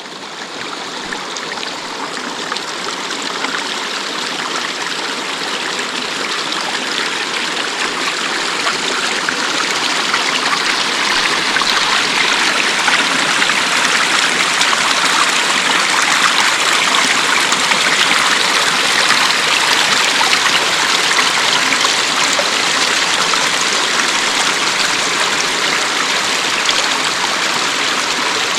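Rushing water of a forest creek, a steady rush that swells over the first ten seconds or so and then holds.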